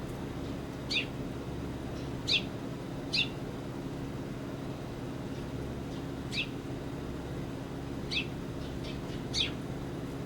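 A small bird giving short, sharp calls, six in all, each sweeping quickly down in pitch, over a steady low hum.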